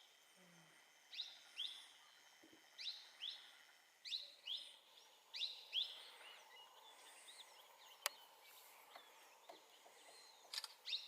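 A bird calling in the forest: short, quick-sweeping high notes in pairs, repeated about every second and a half, falling away midway and returning near the end. A single sharp click about eight seconds in.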